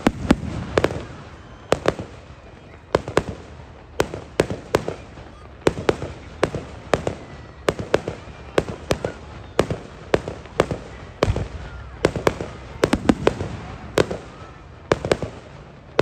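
Aerial fireworks shells bursting in quick, irregular succession: sharp bangs come several a second, often in clusters.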